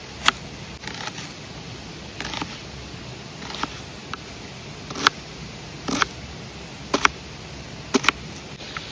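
A series of sharp, separate clicks or taps, about one a second and irregularly spaced, over a steady low background hiss.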